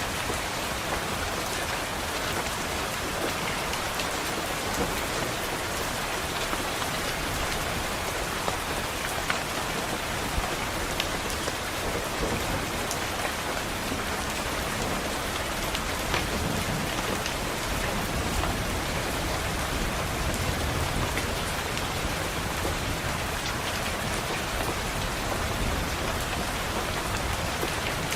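Steady rain on a window, an even hiss with scattered sharp drop taps, and a low thunder rumble swelling up about two-thirds of the way through.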